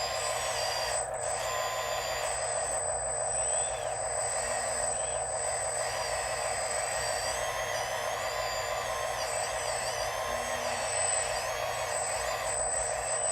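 Small electric motors and gearboxes of RC construction machines running, a steady grinding drone under high whining tones that rise and fall as the motors speed up and slow down.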